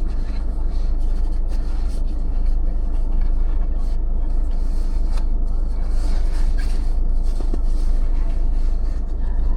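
A car driving on city streets: a steady low rumble of engine and road noise with traffic around, and a few faint brief ticks.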